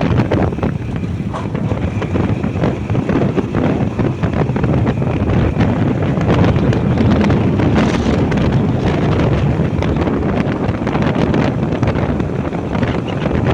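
Wind buffeting the microphone on a moving motorbike: a loud, steady, rough rush of noise with no pauses.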